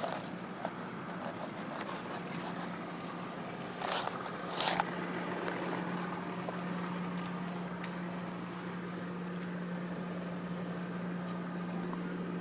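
Car engine idling with a steady low hum, with two brief rustles from handling about four seconds in.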